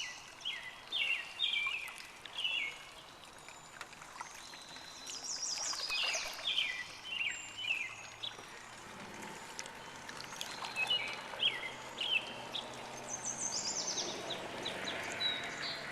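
Songbirds singing in short repeated phrases, with a steady wash of moving water underneath and a brief swell of water noise near the end.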